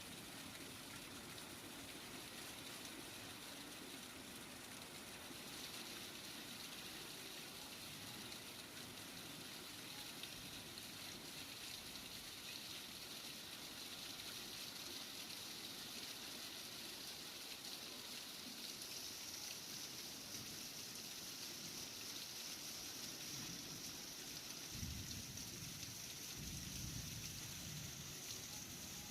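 Heavy rain falling steadily as an even hiss, with a brief low rumble near the end.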